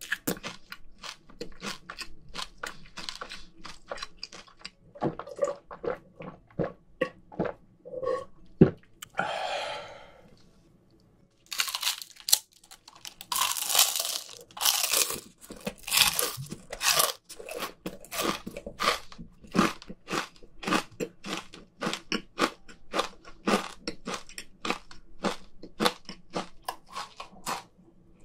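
Close-miked crunching and chewing of crispy fried chicken skin, bite after bite, with a louder, denser run of crunching a little past the middle.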